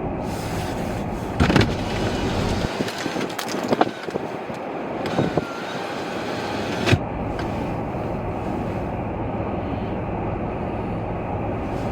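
Car driving in blizzard wind, heard from inside the cabin: steady road and engine noise with wind rushing past. Several louder, sharper whooshes come between about one and seven seconds in.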